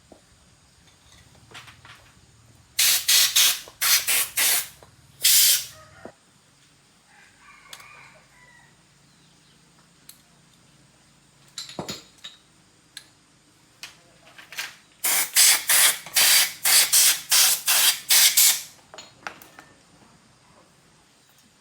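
Short, loud hissing spray bursts, a quick run of them a few seconds in and a longer run of about eight near the end, as Honda Win 110 engine parts are sprayed clean of deposits.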